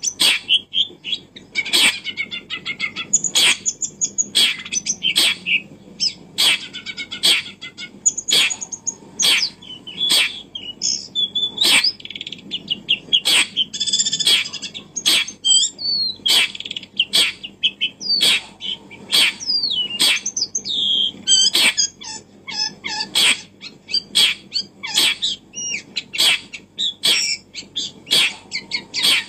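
Birds chirping: a sharp call repeated about once a second, with twittering and gliding chirps in between.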